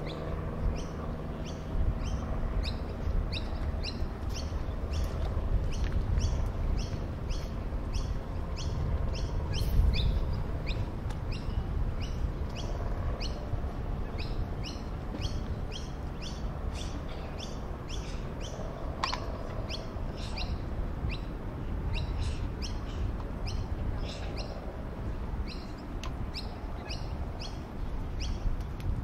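A small bird chirping over and over, short high chirps about two a second, over a steady low rumble.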